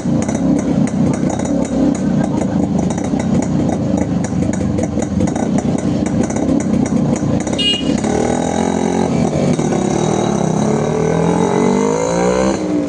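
Vintage two-stroke motorcycle engine running. About eight seconds in, the note changes to rising and falling pitches as the engine revs up and down.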